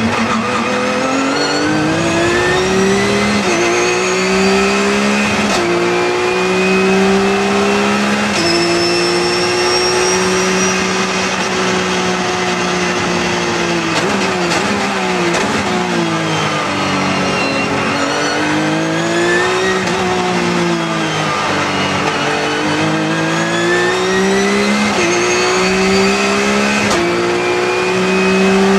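Car engine heard from inside the cabin at full throttle, revs climbing and stepping down at quick upshifts every few seconds. About halfway through the revs fall in steps as it brakes and downshifts, then it pulls up through the gears again.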